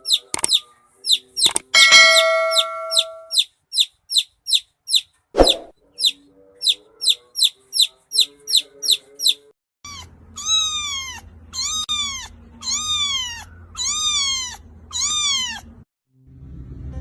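Baby chicks peeping: a quick run of short, high, falling peeps, about two or three a second, with a steady chime-like tone about two seconds in. Then a kitten mewing six times, about one mew a second.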